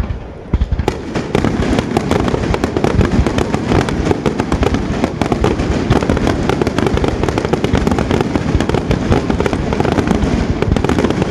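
Aerial fireworks display: a dense, continuous barrage of rapid bangs and crackles, after a short lull about a second in.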